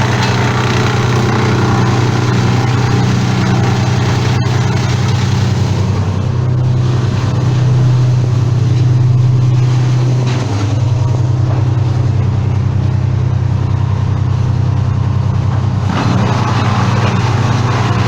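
An engine running steadily with a low hum. Its pitch rises a little for a few seconds in the middle, then drops back suddenly.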